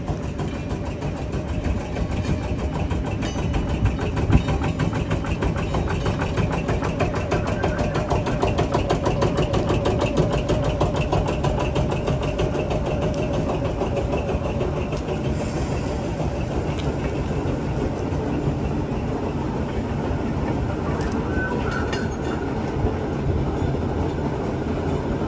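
A train running by close at hand: steady, loud engine and rolling-wheel noise.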